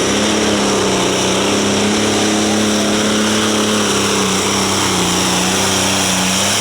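Light limited pro stock pulling tractor's diesel engine running hard at high, nearly steady revs under load, loud throughout, with a brief slight dip in pitch about five seconds in.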